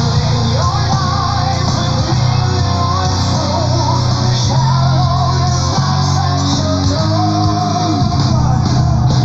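Power progressive metal song playing: electric guitars and bass under a sung lead vocal.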